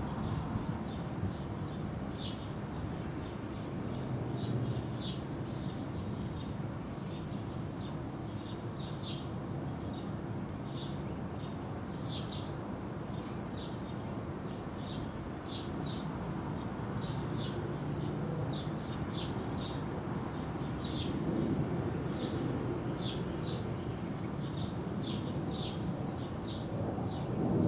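Small birds chirping in quick short notes, about two a second, over a steady low background rumble.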